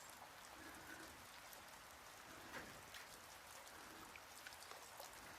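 Near silence: a faint steady hiss with scattered light ticks and crackles.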